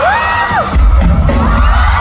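Pop song playing loud over a concert sound system, a heavy bass beat coming in just under a second in, with fans screaming and cheering over it.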